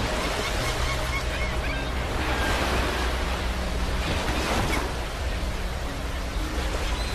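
Ocean waves breaking and washing on a beach, the surf swelling louder about two seconds in and easing off again around five seconds.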